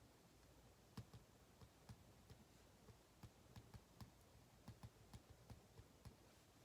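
Faint, irregular light clicks and taps, a few a second, from work at a desk.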